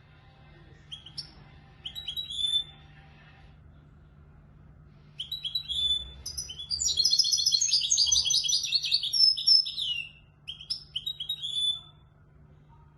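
Young European goldfinch singing in the Moroccan Marrakchi style. Two short twittering phrases come in the first few seconds. About five seconds in, a long, fast, warbling phrase begins and lasts around six seconds, ending with a short final burst.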